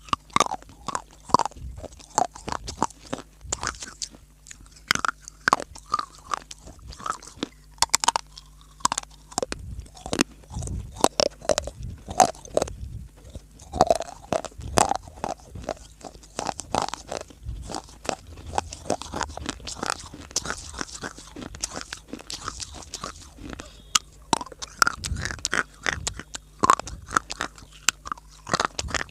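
Close-miked crunching of a person biting and chewing hard, dry baked clay (mitti): dense, irregular sharp crunches, several a second, all the way through.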